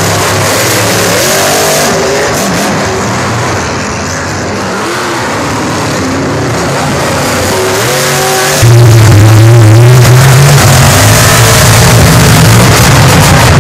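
Maximum Destruction monster truck's supercharged engine revving up and down, its pitch rising and falling, then getting suddenly louder about two-thirds of the way in.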